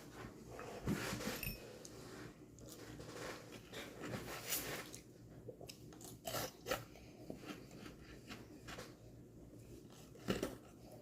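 Biting and chewing a frozen strawberry lemonade popsicle, close to the microphone: irregular crunches and clicks, the loudest about a second in and near the end.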